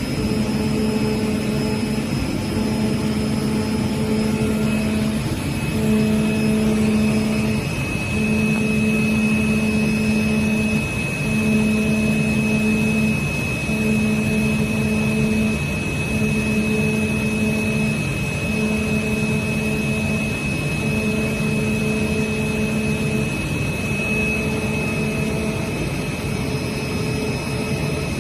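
CNC oscillating-knife cutting machine running over a steady whine and noise, with a low motor hum that starts and stops every two seconds or so as the cutting head makes its moves.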